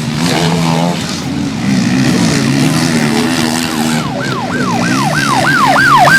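Motocross bike engines running and revving. From about four seconds in, a fast rising-and-falling wail joins in, about three sweeps a second and growing louder, like a yelp siren.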